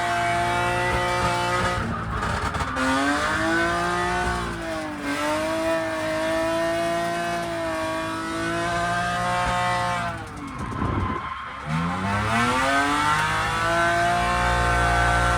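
BMW E36 drift car's engine revving hard under throttle, its pitch rising and falling through the drift, with tyre squeal. About ten seconds in the revs drop sharply on a lift, then climb again.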